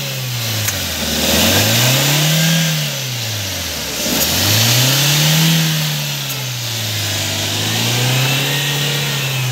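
Maruti Suzuki Ertiga's 1.5-litre four-cylinder petrol engine being revved three times in quick succession, each rev rising and dropping back over about two seconds. The last rev is held a little longer near the end.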